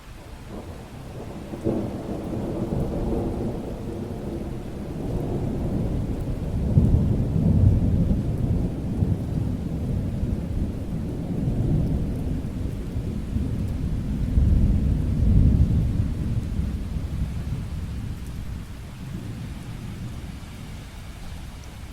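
A long roll of thunder over steady rain: it breaks in sharply about two seconds in, swells twice as it rumbles on, and slowly fades near the end.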